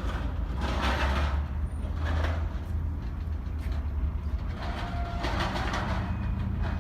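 Alco S-6 diesel switcher locomotive running with a steady low rumble, with a few short rushes of hiss over it.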